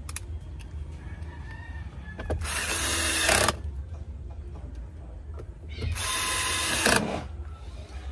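Power drill or driver running twice, about a second each time, driving screws, the second run winding up in pitch as it starts.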